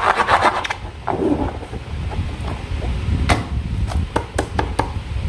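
Slime being worked by hand: a quick run of sticky crackling stops under a second in, then a few sharp clicks and snaps follow one after another in the last two seconds.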